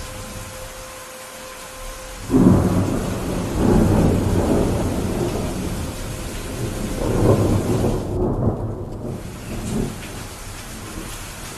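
Steady rain with a rolling peal of thunder that breaks suddenly about two seconds in, rumbling in several swells before dying away near the end.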